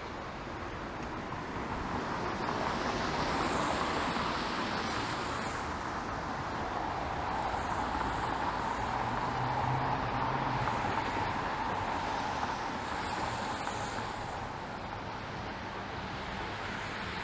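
Street traffic on wet pavement: passing cars with tyres hissing over a steady traffic hum, swelling with a louder pass about a quarter of the way in and again about three-quarters through.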